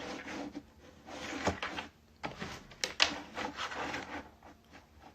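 Rustling and sharp plastic clicks from handling a taped-up takeout food package as it is pulled and pried at, struggling to get it open.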